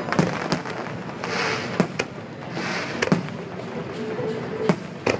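Aerial fireworks going off: about six sharp bangs a second or so apart, with bursts of crackling fizz between them.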